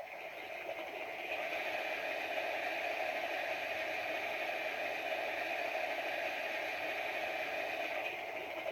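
Water-stop sound effect from the Bachmann G scale Climax's on-board DCC sound decoder: a steady rush of water filling the tender, played through the locomotive's small speaker. It swells about a second in and then holds level.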